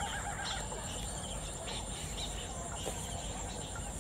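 Birds calling over a steady low rumble: a wavering trill that stops about half a second in, then scattered short chirps and calls.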